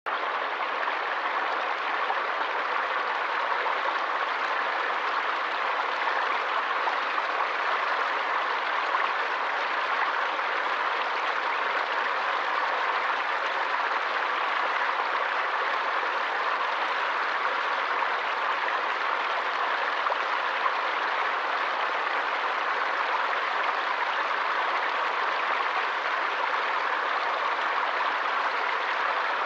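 Forest stream water flowing steadily, an even, unbroken rush of running water.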